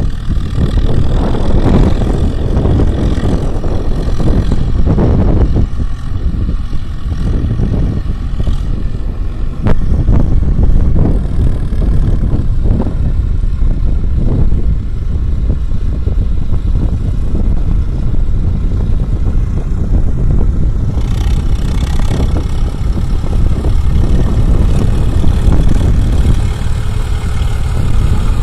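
Several tractor engines running together loudly, with uneven surges of engine noise.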